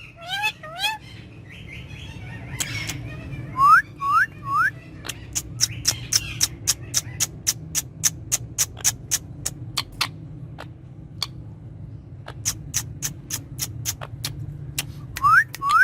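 Indian ringneck parakeet whistling and calling: three quick rising whistles about four seconds in, then a long run of short, sharp chirps, several a second.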